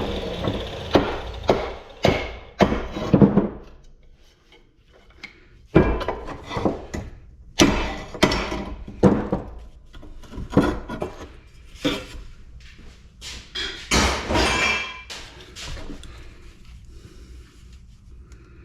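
Scrap metal being banged on by hand, to knock a copper part free: a run of irregular sharp knocks and clanks. They come quickly in the first few seconds, then again after a short lull, with a dense cluster around two-thirds of the way in.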